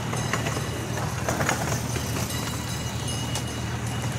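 Small amusement-park train running, heard from on board: a steady low engine drone with scattered clicks and rattles from the cars.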